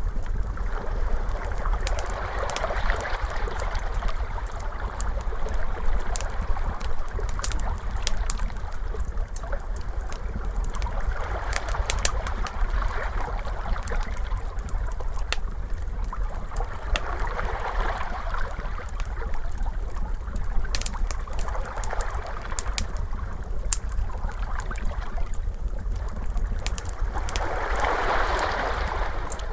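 Fire crackling with many sharp pops while ocean waves wash in, each wave swelling and fading every several seconds over a steady low rumble.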